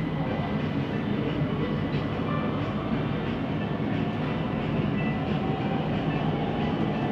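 Siemens Inspiro metro train running at speed, heard from inside the carriage: a steady rolling rumble of wheels on rail with a thin high tone over it, the odd rolling noise of this carriage.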